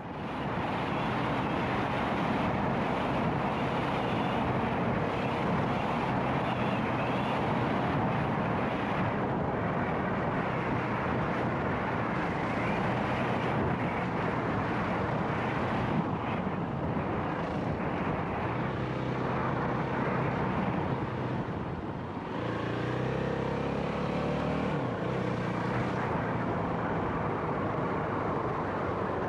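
Dirt bike engine running steadily while riding along a track, with wind and tyre noise. Just after two-thirds of the way through it eases off briefly, then the revs climb again.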